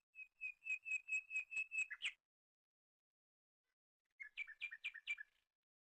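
A songbird singing: a run of about eight clear, evenly spaced whistled notes, then after a short pause a quicker run of two-toned notes.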